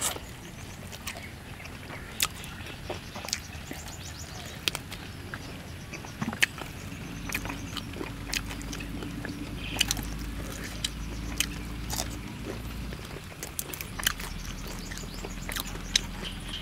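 Close-up mouth sounds of chewing crispy roasted field-rat skin: irregular crunches and wet clicks, with occasional crackles as the meat is torn by hand.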